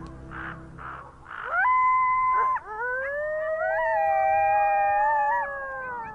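Several wild canids howling together. A few short harsh calls come in the first second. Then one howl rises and holds before breaking off, and several overlapping howls at different pitches swell in and slowly fall away near the end.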